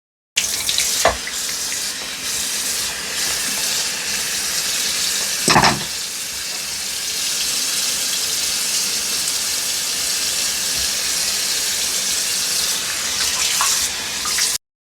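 Hand shower spraying water steadily, rinsing a dog's coat, with two short knocks, one about a second in and one near the middle.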